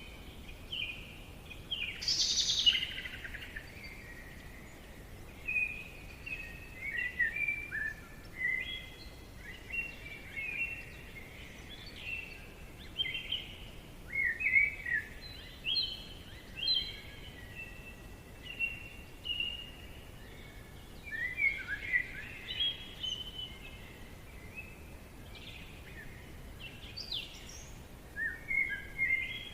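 Songbirds singing in a forest: a steady run of short chirps and warbled phrases, over a faint steady background hiss.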